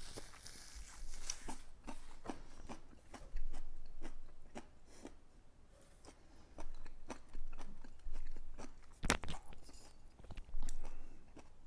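Close-up chewing and biting into crunchy food, a breaded deep-fried pork cutlet (tonkatsu), with many irregular crunches and one louder crack about nine seconds in.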